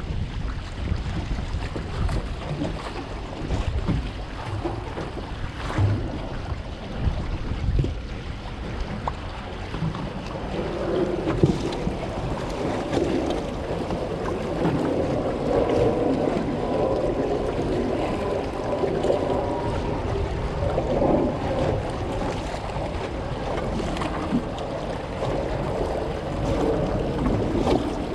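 Wind buffeting the microphone over sea waves, a steady low rumble. From about ten seconds in, a rougher noise swells up for about ten seconds before easing off.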